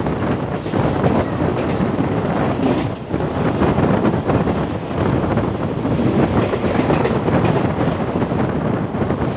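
ICF passenger coach running at speed: a steady loud rumble and clatter of wheels on the rails, with wind buffeting the microphone.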